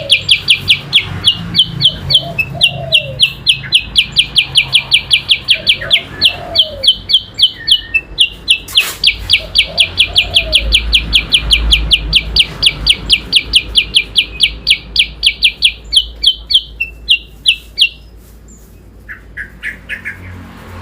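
A songbird repeating one high sweeping note rapidly, about six times a second, in a long unbroken run. The run stops a few seconds before the end, and a few fainter notes follow.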